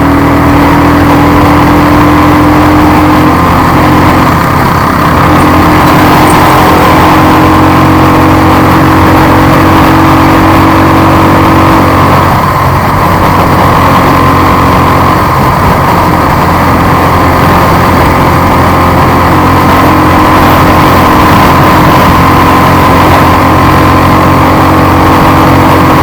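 Royal Enfield Thunderbird 350 single-cylinder engine running at a fairly steady cruising speed, its pitch shifting a little with the throttle, under a constant rush of wind and road noise.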